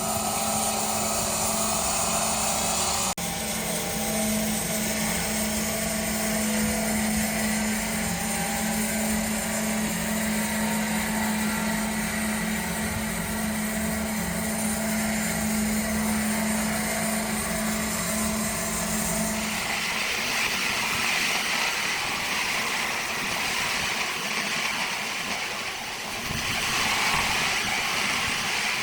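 A motor or engine running steadily with a low hum. About twenty seconds in, the hum drops away and a higher hissing sound takes over.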